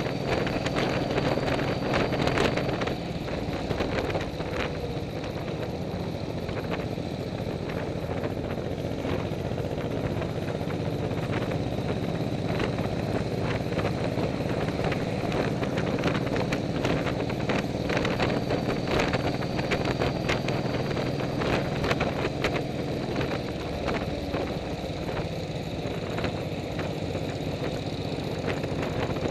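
Motorcycle engine running at a steady speed while riding, with gusts of wind noise.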